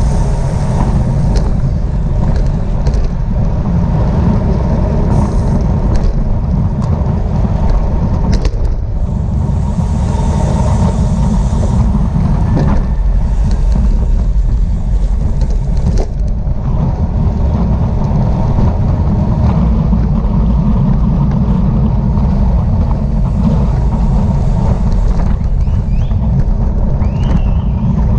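Steady low rumble of wind over the microphone of a camera riding on a racing bicycle at speed, with a few light clicks.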